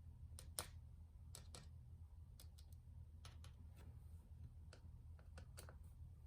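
Faint, irregular light clicks and ticks, about fifteen of them at uneven spacing, over a low steady hum.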